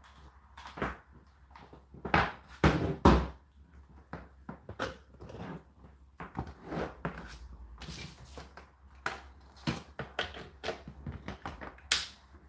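Indesit IDC8T3 condenser tumble dryer running: a steady low motor hum under laundry tumbling in the turning drum, thudding and knocking irregularly, loudest about two to three seconds in and again near the end.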